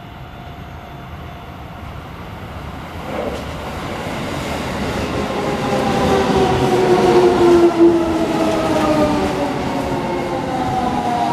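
Six-car electric commuter train pulling into a station platform, its rumble growing steadily louder. From about halfway in, a whine falls slowly in pitch as the train slows.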